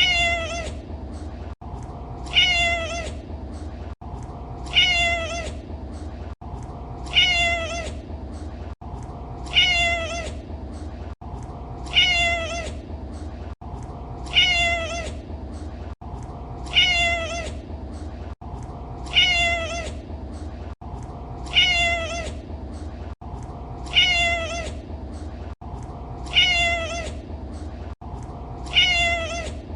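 A domestic cat meowing, the same short meow, dropping slightly in pitch, repeated evenly about every two and a half seconds like a loop, around thirteen times, over a steady low hum.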